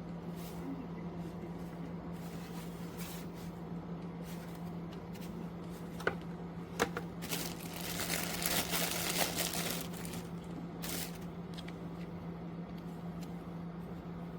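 Cmyfato 12-inch box fan running steadily with a low hum and a whoosh of air. A couple of sharp clicks come about six and seven seconds in, then a few seconds of rustling, crinkly handling noise.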